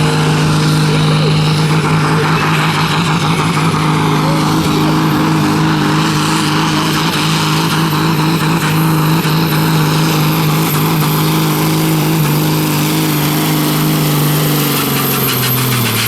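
Pulling tractor's engine running flat out under load during a pull, holding a steady high note with a thin high whine above it. Near the end the engine note drops away sharply.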